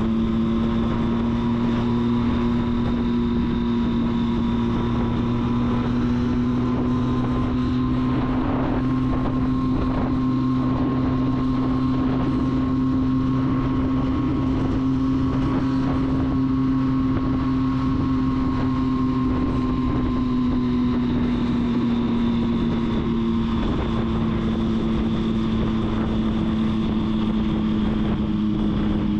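Triumph Street Triple's three-cylinder engine running steadily under way, its pitch creeping up and then easing down again about two-thirds of the way through, with wind noise on the microphone.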